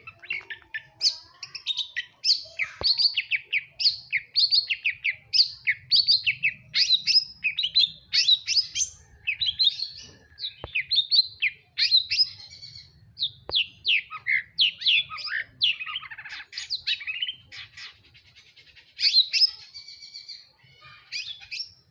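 Long-tailed shrike (cendet, Madura type) singing at length: a rapid run of sharp, downward-sweeping chirps, several a second, with a short lull about three quarters of the way through.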